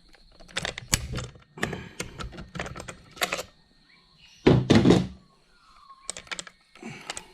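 Clicking and knocking of hard parts and tools being handled while an RC monster truck is taken apart: rapid clusters of clicks, with one louder thunk about halfway through.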